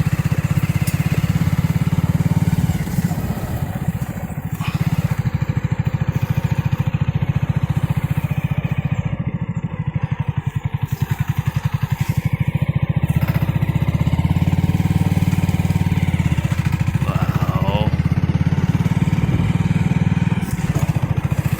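A vehicle engine running steadily with an even low throb, dipping briefly around four seconds in and settling onto a lower note for a couple of seconds past the middle.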